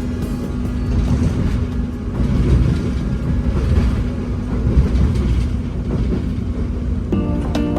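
Passenger train running along the track: a steady low rumble of the wheels and carriage. Background music comes back in near the end.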